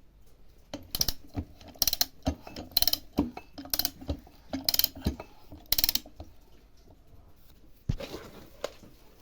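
Repeated mechanical strokes of work on mower parts, about one a second and six in all, each a short noisy burst, followed by a softer, quieter stretch near the end.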